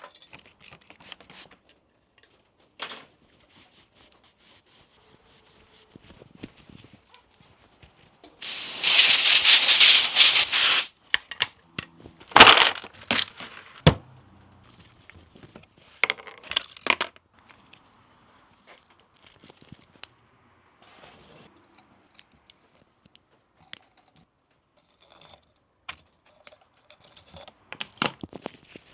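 Workshop handling noises during bicycle brake work. A loud rasping rush runs for about two and a half seconds, followed by several sharp clicks and knocks of tools and parts, with light rustling between them.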